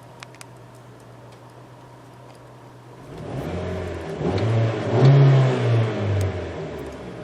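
2011 Kia Carens engine idling, then revved about three seconds in, swelling up and down several times before the revs fall back toward idle near the end.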